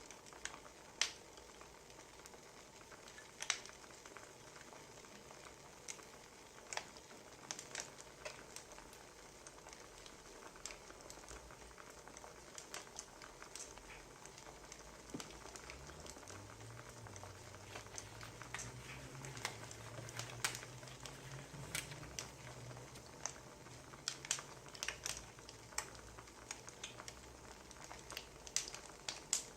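Wood fire crackling: faint, irregular pops and snaps over a soft hiss. A low hum joins for several seconds in the middle.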